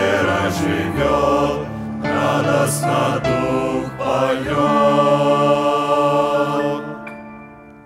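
A vocal group sings the closing words of a Russian hymn's refrain in harmony, then holds a long final chord that fades away about seven seconds in.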